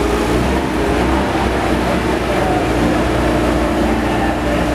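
Steady machine hum and low rumble, most likely the JLG boom lift's motor running while the raised lift works, with a faint steady tone settling in about halfway through.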